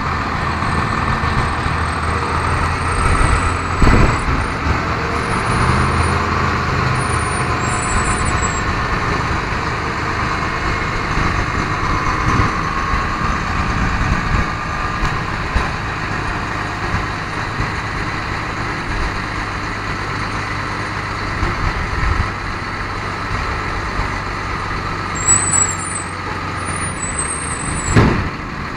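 The 1998 Ford F800's 5.9L Cummins diesel idling steadily, with a sharp knock about four seconds in and another near the end, and thin high chirps at times.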